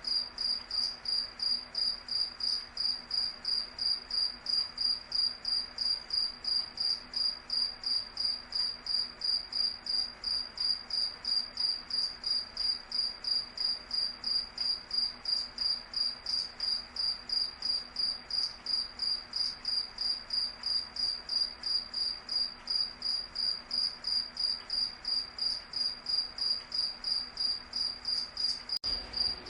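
Cricket chirping: a steady, even train of high-pitched chirps, about two or three a second.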